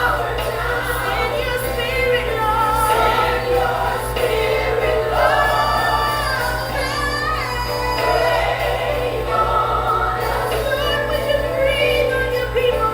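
Gospel music: a woman singing lead, with choir voices joining her.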